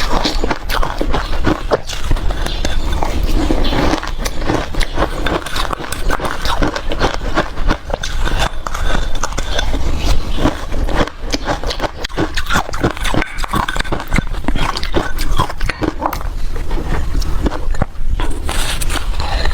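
Close-miked crunching and chewing of ice, a dense, irregular run of cracks and crunches.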